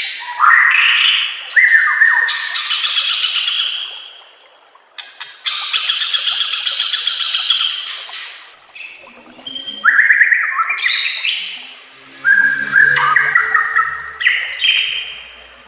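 White-rumped shama (murai batu) singing a loud, varied song of whistled phrases and fast trills, with a brief pause about four seconds in.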